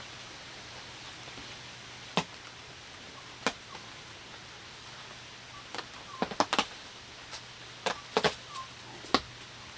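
Steady rain hiss with scattered sharp clicks, single ones early on the way and a quick cluster of several about six seconds in and again toward the end.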